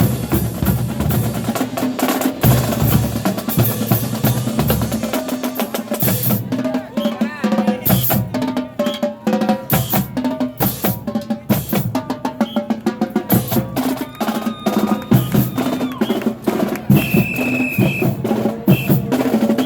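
Marching band playing, with the drumline's rapid snare and bass drum strokes to the fore over held wind and brass notes.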